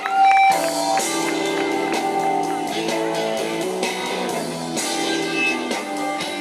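Music played on guitar: a run of held notes and chords that comes in suddenly at the start.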